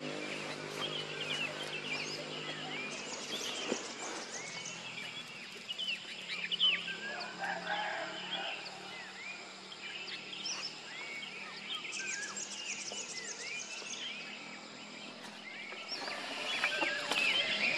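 Many small birds chirping and calling over a quiet background. A low steady hum sits underneath for the first few seconds and then fades.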